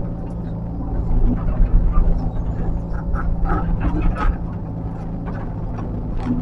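Engine of heavy earthmoving machinery running steadily, with a few short sharp sounds over it about one to four seconds in.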